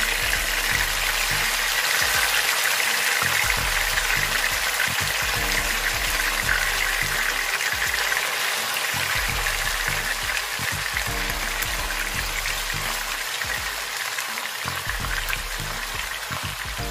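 Chicken wings sizzling as they fry in hot cooking oil in a pan, a steady sizzle that eases a little toward the end.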